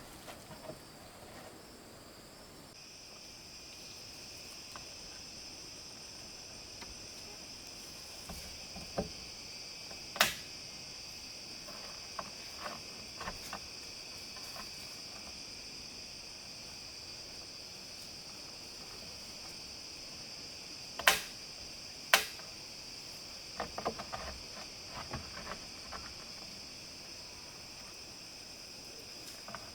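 A steady, high insect chorus of crickets or cicadas sets in about three seconds in and carries on. It is broken by a few sharp knocks, the three loudest around ten and twenty-one to twenty-two seconds in, with some lighter clicks between.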